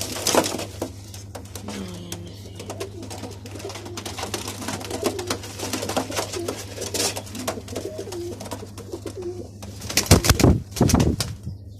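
Domestic pigeons cooing, with scattered clicks and shuffling and a steady low hum. About ten seconds in there is a loud, brief rustling flurry.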